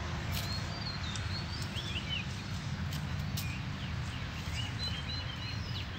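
Small birds chirping and calling in short, quick notes over a steady low rumble, with a few short clicks.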